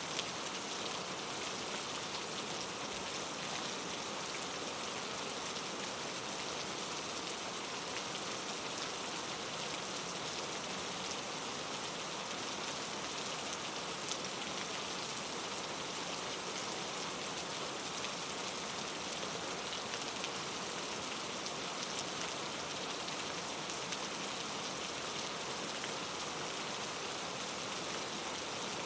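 Precipitation falling steadily on a surface: a dense, even patter and hiss with faint scattered ticks, unchanging throughout.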